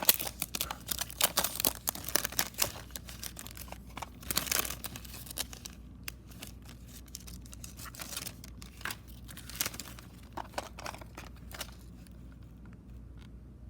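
Plastic shrink-wrap on a cassette tape being torn open and crinkled. The crackling is dense for the first half, thins to scattered crackles, and is faint near the end.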